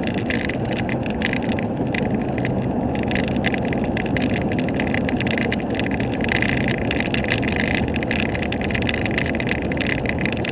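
Steady engine and road noise of a vehicle driving on the highway, with a rapid crackling hiss on top.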